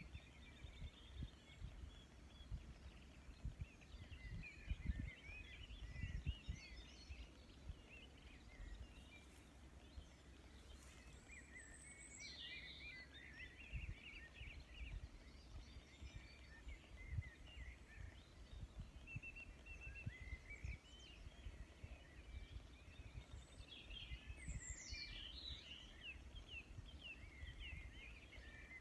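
Wild birds chirping and twittering, with two louder calls that slide downward, one before the middle and one near the end. Under them runs a low, uneven rumble of wind buffeting the microphone.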